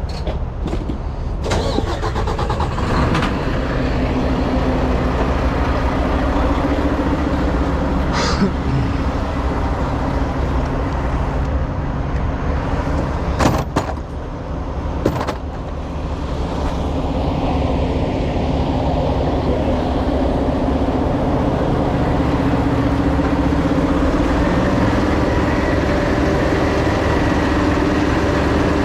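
Mack truck's diesel engine idling steadily, with a few short clicks and two sharp knocks about a second and a half apart near the middle.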